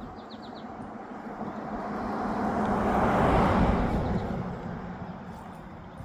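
A vehicle passing by: a steady rush of noise that swells to a peak about three seconds in and then fades away. A bird chirps a few times at the start.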